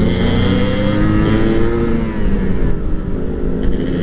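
Sport motorcycle engines running hard at high road speed, the engine note rising steadily over the first two seconds, over wind and road noise.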